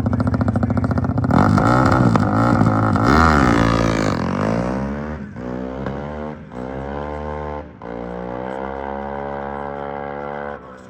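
Motorcycle engine revving hard close by, then accelerating away through several gear changes: the pitch climbs and drops back at each shift as it fades. The sound cuts off abruptly near the end.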